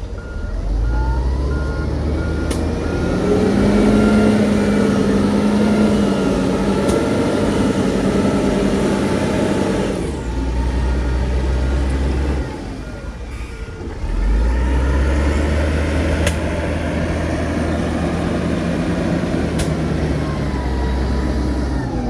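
Heavy diesel earthmoving machinery working under load, its engine pitch rising and easing, with a few sharp metallic clanks. A reversing alarm beeps for a few seconds past the middle, while the engine eases off before it picks up again.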